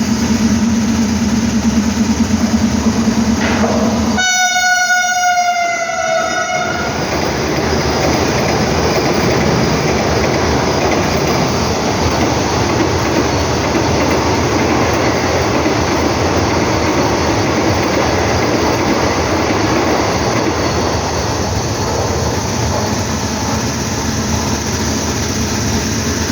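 Vande Bharat Express electric trainset sounding its horn as it approaches: a low steady note for about four seconds, then a higher note for about two and a half seconds that dips slightly as it ends. After that comes the steady rushing rumble and clatter of the train running through the station at speed.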